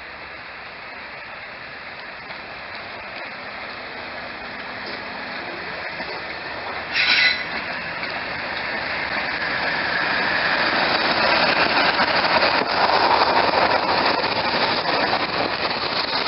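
A train approaching and running past, its rolling noise growing steadily louder and peaking in the second half. A short, high-pitched tone sounds about seven seconds in.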